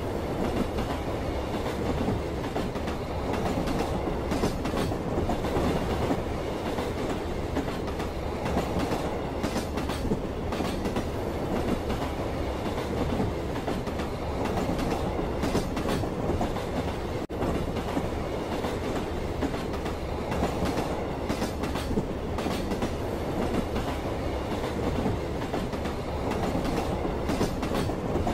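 Passenger train running along the track, heard from inside the carriage: a steady rumble with the clickety-clack of wheels over rail joints. The sound drops out for an instant about two-thirds of the way through.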